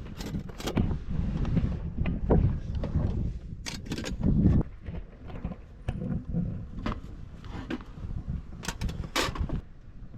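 Camping gear being handled and set out on a table: an irregular run of knocks, clicks and rustling, with a louder clatter about two seconds in and again around four and a half seconds.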